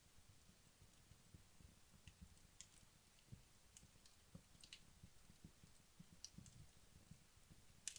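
Wood logs burning in a fireplace late in their burn-down: faint, scattered crackles and pops at irregular intervals, the sharpest pop near the end.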